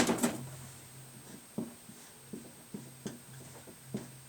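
A sharp knock at the start, then about half a dozen light taps at irregular intervals, over a faint steady low hum.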